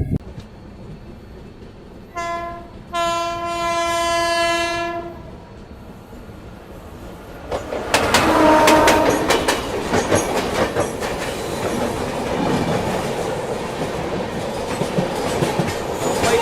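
Indian Railways locomotive horn sounding a short blast and then a longer one, followed by the train rushing past at speed with its wheels clattering rapidly over the rail joints.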